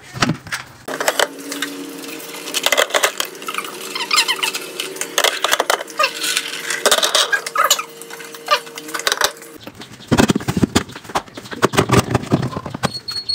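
Plastic food containers and an egg tray being set down and slid onto refrigerator shelves: a string of irregular clinks, clicks and knocks. A steady hum runs under most of it and stops near the end.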